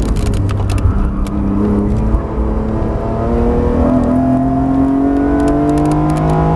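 BMW E46 M3 CSL's 3.2-litre straight-six, heard from inside the cabin, running through a corner under braking, then rising in pitch as it accelerates out from about four seconds in. A few sharp clicks in the first second.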